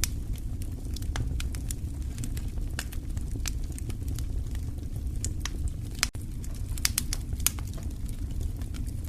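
Wood fire in a fireplace crackling, with irregular sharp pops several times a second over a steady low rumble of burning. The sound drops out for a moment about six seconds in.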